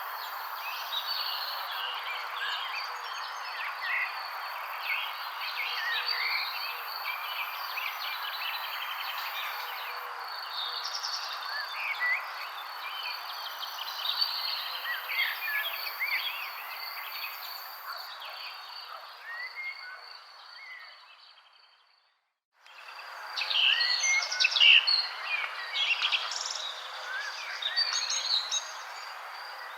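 Many songbirds chirping and calling over a steady background hiss and a thin steady high tone. About two-thirds of the way through, it all fades out to a brief silence and then fades back in, the chirps louder and busier.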